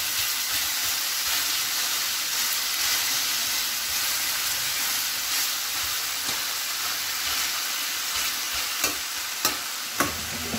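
Chicken breast pieces sizzling in olive oil in a frying pan, a steady hiss, with three sharp clicks near the end.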